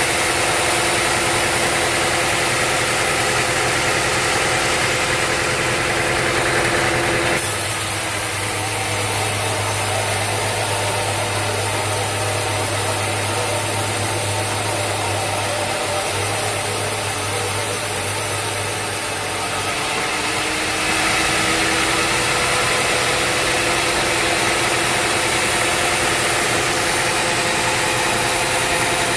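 Sawmill machinery running steadily with an engine-like hum, its tone shifting abruptly about seven seconds in and shifting back near twenty seconds, with a brief rising whine just after.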